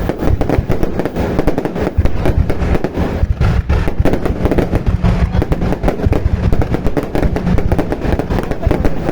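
Aerial fireworks going off in a dense, continuous barrage: many overlapping bangs and booms with crackling, with no pause.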